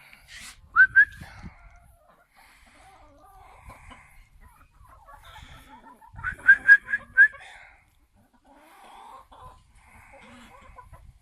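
Chickens clucking and calling, with a pair of short sharp calls about a second in and a quick run of about five about six and a half seconds in, over softer low clucking.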